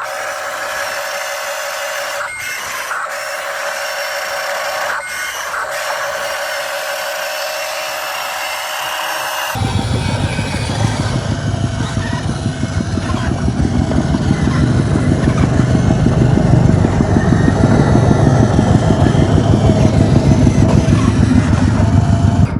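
Motors of radio-controlled construction machines whining steadily. About ten seconds in, the sound switches abruptly to a louder, deeper, fast-pulsing machine rumble.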